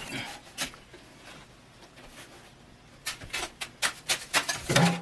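Snow and ice being knocked and scraped off a bird feeder: a couple of clicks, a quiet spell, then from about three seconds in a quick run of sharp clicks and knocks.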